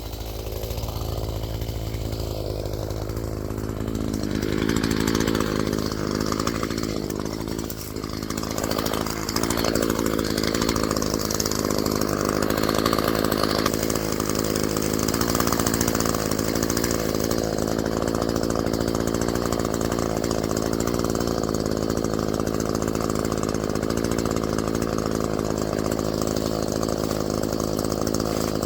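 Echo two-stroke gasoline chainsaw running. It speeds up about four seconds in, drops briefly near eight seconds, then runs steadily at high speed.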